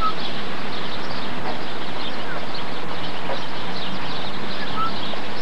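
Many small birds chirping over a steady rushing noise.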